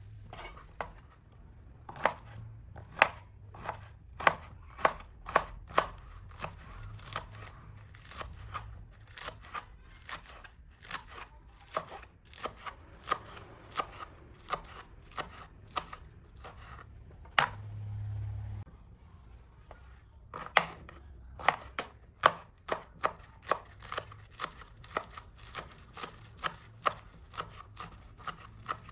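Kitchen knife chopping vegetables on a cutting board: repeated sharp knocks, about two a second, with a short break about two-thirds of the way through.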